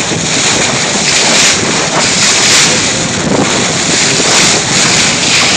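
Wind buffeting the microphone over the steady rush of water along the hull of a moving boat.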